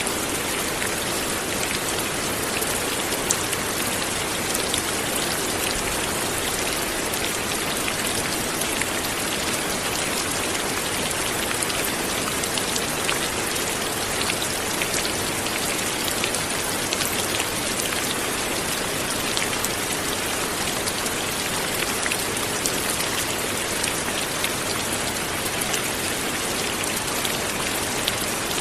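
Steady light rain falling, an even patter with small drops ticking here and there.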